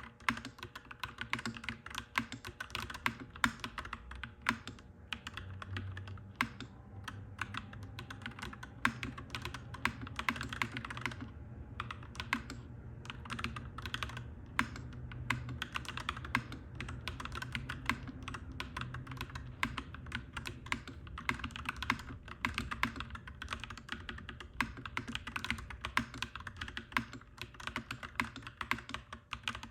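Clacky mechanical keyboard being typed on quickly and continuously, several key clacks a second, with a short lull about a third of the way in. A low steady rumble sits underneath.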